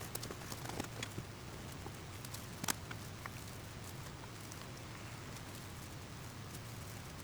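Steady low hum of a running generator under scattered light ticks and taps, with one sharper click about two and a half seconds in.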